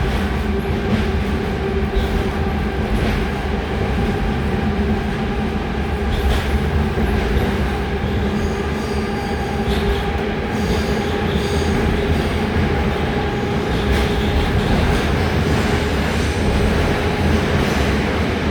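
Rusich articulated metro train running at speed, heard from inside: a steady rumble of wheels on rail with a continuous motor hum and scattered clicks. A high, thin wheel squeal comes in around the middle for a few seconds.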